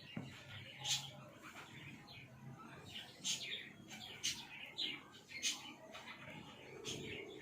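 Pet budgerigar chirping: a handful of short, sharp, high chirps at irregular intervals.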